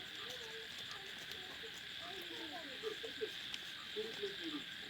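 Outdoor animal chorus: a steady high drone with short, low warbling calls coming in clusters every second or so.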